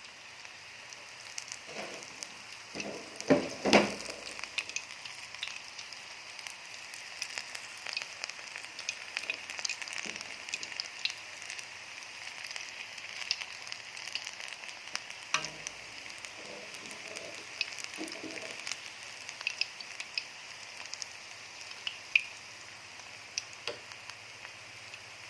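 Spinach pakoras in gram-flour batter deep-frying in hot ghee in a kadhai: a steady sizzle with many small crackling pops. A few louder knocks break it, the loudest about three to four seconds in.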